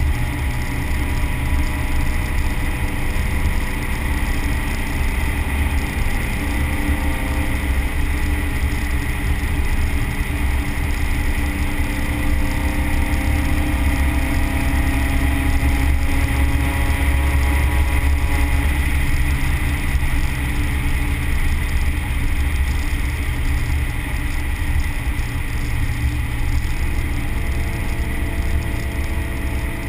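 Modified 1973 VW Beetle's 1600 cc air-cooled flat-four, on Kadron carburettors with a 4-into-1 header, running steadily at cruising speed, heard from inside the cabin.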